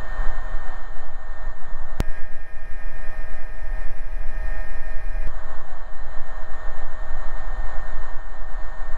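Cabin noise of an AW119 Koala single-engine turbine helicopter in flight: a steady, loud rotor and engine drone with a couple of constant whining tones. A sharp click about two seconds in, with a few extra faint tones for about three seconds after it.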